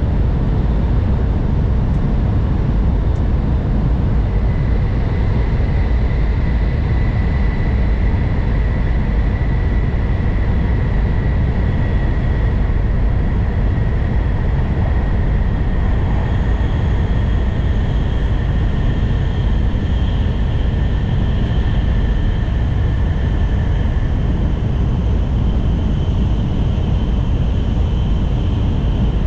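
N700 Series Shinkansen running at speed, heard from inside the car: a steady, loud rumble of wheels and rushing air. A faint high whine drifts slowly lower through the middle.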